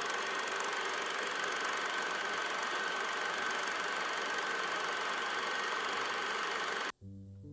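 A machine running steadily, with a constant high whine over its noise; it cuts off abruptly about seven seconds in, and soft sustained musical notes follow.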